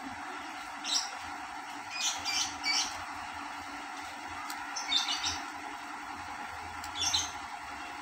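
Small birds chirping in short, irregular bursts, about seven times, over a steady background hum.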